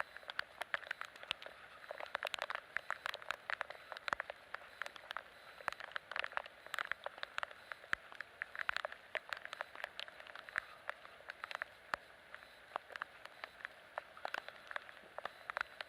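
Rain pattering as many irregular small taps a second, falling during a typhoon.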